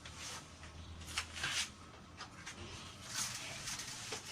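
Faint scratching of a pen writing on paper: a handful of short strokes with pauses between, over a faint low hum.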